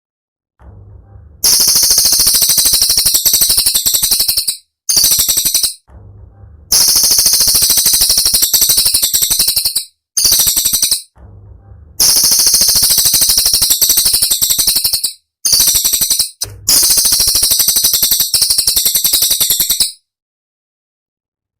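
Cililin songbird singing in high-pitched, very rapid, rattling trilled phrases of one to four seconds, separated by short pauses.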